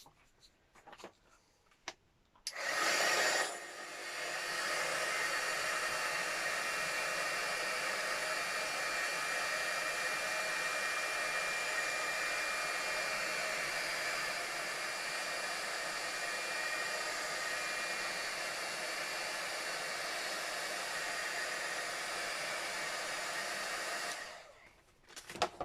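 Electric heat gun switched on about two and a half seconds in, blowing steadily with a faint whine, then switched off near the end; it is drying a coat of gesso on a book cover.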